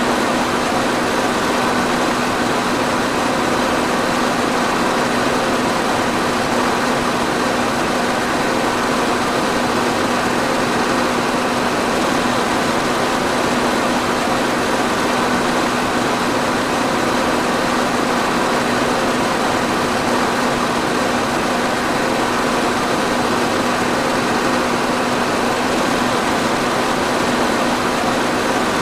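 Electric fan running steadily: an even rush of moving air with a constant low hum.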